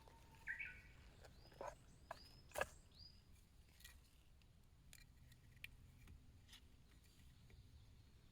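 Near silence outdoors, broken by a few faint, short, high bird chirps and several soft clicks, the loudest click about two and a half seconds in.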